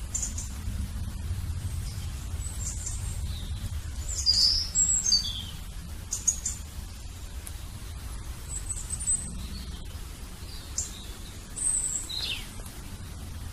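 Small birds chirping: short high chirps and quick falling whistles at irregular intervals, over a steady low hum.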